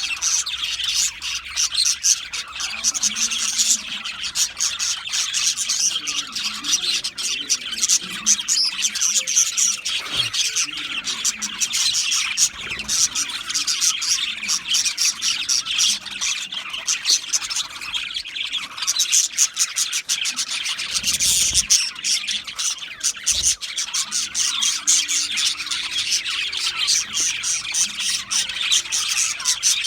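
Several budgerigars chirping and chattering at once, a dense, continuous warble of rapid short notes with occasional squawks. A few soft low thumps come through about ten seconds in and again past twenty seconds.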